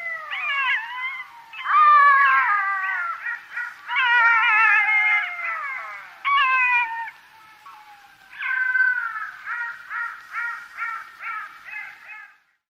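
Black-backed jackal calling: wavering, gliding wails that rise and fall, then a run of short repeated yelps near the end.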